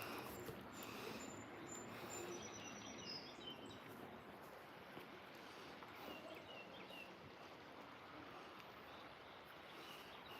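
Faint, quiet outdoor ambience: a steady low hiss with a few short, high bird chirps, a cluster in the first few seconds and more about six seconds in.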